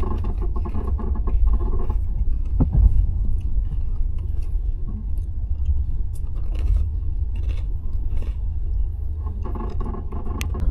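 Steady low rumble of a slow passenger train running, with scattered clicks and rattles on top.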